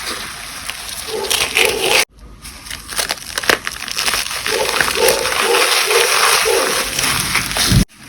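Reformed gym chalk being crushed and crumbled, a dense crackly crunching with many small snaps. It breaks off abruptly about two seconds in and again near the end.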